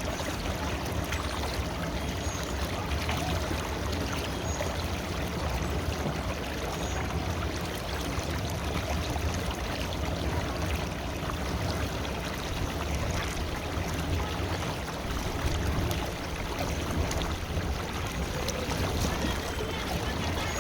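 River water flowing and splashing over rocks, a steady even rush with a deep rumble underneath.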